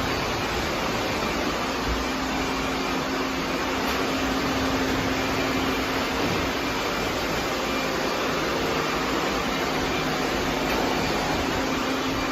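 Several robot vacuum cleaners running at once: a steady, even whirring drone with a constant low hum under it.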